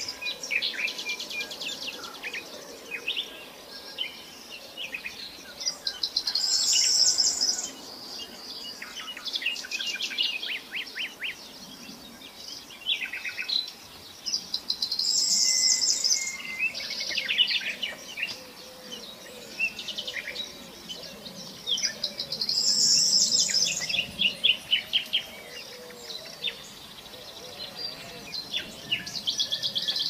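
Songbird calls in a repeating pattern: a high buzzy trill followed by a run of quick, sharp chirps, recurring about every eight seconds.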